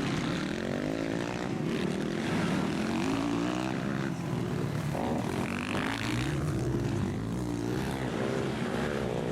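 Several motocross bike engines revving as the bikes ride the track, their pitch climbing and dropping again and again as riders open and close the throttle through the gears, overlapping one another.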